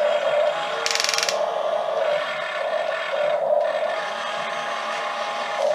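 Small electric motors and gearboxes of toy RC excavators whining steadily as they work, with a short, fast rattle about a second in and scraping.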